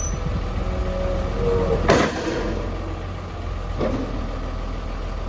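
1994 Freightliner boom truck's diesel engine idling steadily while the hydraulic outrigger legs are retracted. There is a loud, sharp burst about two seconds in and a softer one near four seconds.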